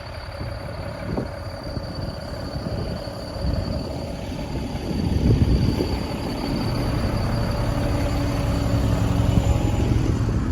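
A large vehicle passing close on a snowy city street: a low mechanical hum with several steady tones that swells about halfway through and holds.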